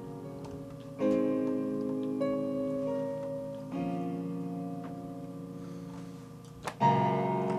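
Electronic keyboard played slowly in held piano-like chords, a new chord struck about a second in, another near the middle and a third near the end, with a short click just before the last.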